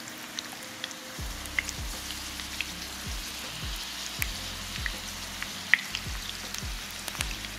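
Corn tortilla tacos shallow-frying in hot oil in a pan: a steady sizzle with scattered crackling pops.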